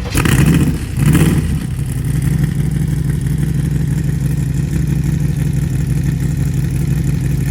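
A classic car's engine is blipped twice in quick succession, then settles into a steady idle.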